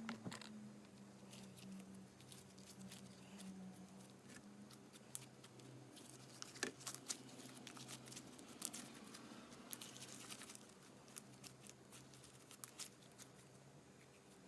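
Faint, irregular sticky clicks and crackles of clear slime being squeezed and stretched by hand, over a faint low hum.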